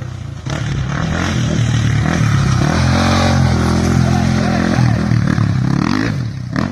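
Rally-raid motorcycle engine revving and changing pitch as the bike comes past, loud from about half a second in and falling away near the end.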